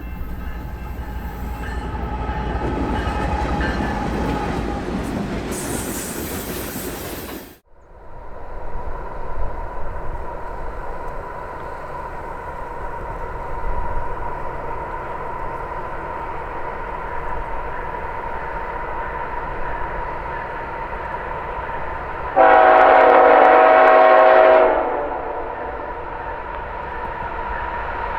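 CN manifest freight train rolling past with a continuous rumble of wheels on the rails. About 22 seconds in, a locomotive horn gives one loud blast of a little over two seconds.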